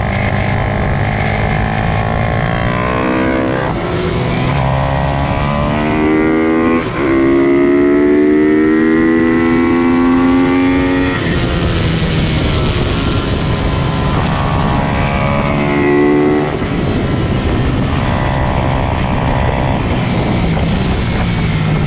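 Pit bike engines racing at high revs, their pitch repeatedly climbing and dropping as they shift and back off. A long rising climb in the middle is the loudest part.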